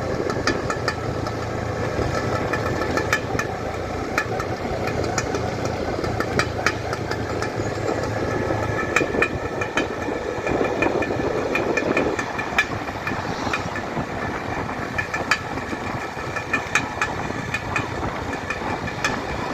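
Vehicle engine running on the road, with many sharp rattling clicks throughout. A low hum fades about halfway through, and the sound swells briefly soon after.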